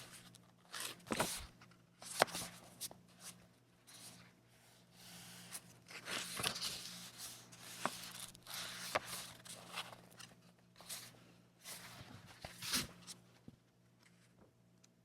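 Paper and packaging handled close up: irregular rustling, crinkling and short tearing sounds with small sharp clicks, over a faint steady hum. It dies down near the end.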